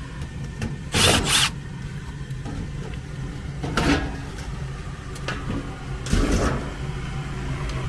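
Gas furnace draft inducer motor running with a steady low hum while the furnace fails to fire; the control's three-flash code reads as a pressure switch stuck open. Short scuffing noises break over the hum, a double one about a second in and single ones near four and six seconds.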